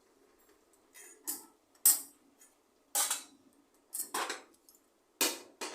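Metal kitchen utensils and pots clanking and scraping: about six separate knocks spread over a few seconds, with a faint steady hum underneath.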